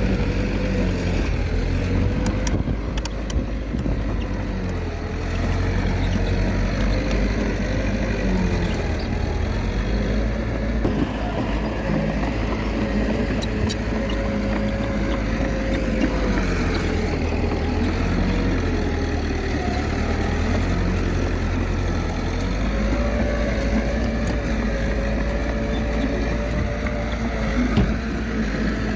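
Diesel engine of a Komatsu D21A small bulldozer running steadily under load, its pitch rising and dipping every few seconds over a heavy low rumble.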